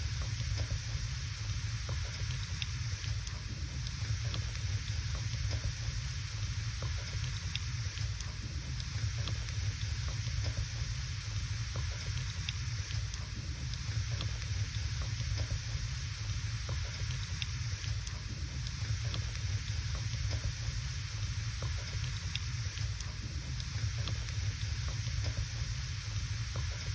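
Wood fire burning in a fireplace: scattered sharp crackles and pops over a steady hiss and low rumble.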